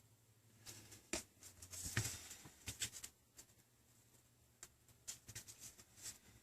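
Faint scattered clicks and taps with a brief scrape about two seconds in, from a tool or fingers working at the tablet's glass as it is separated from the housing.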